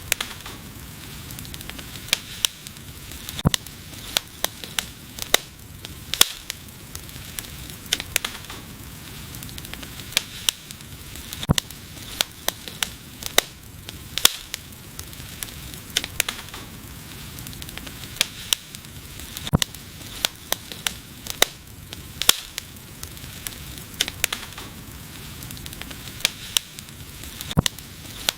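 Wood fire burning: sharp, irregular crackles and pops several times a second over a steady hiss.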